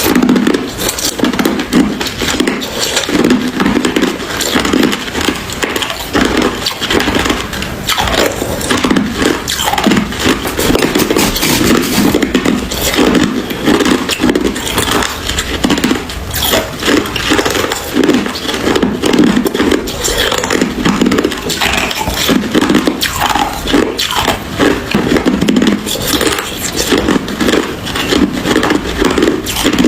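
Hard ice crunching close to the microphone, crunch after crunch with no pause.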